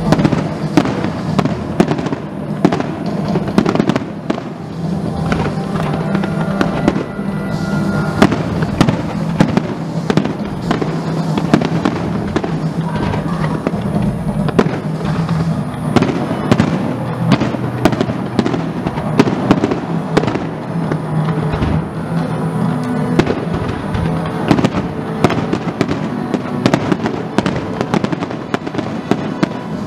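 Aerial fireworks shells bursting in quick, irregular succession, a dense run of sharp bangs and crackles, with music playing underneath.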